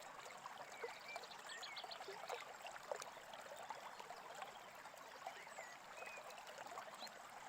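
Faint babbling stream, steady, with a few brief high bird chirps scattered through it.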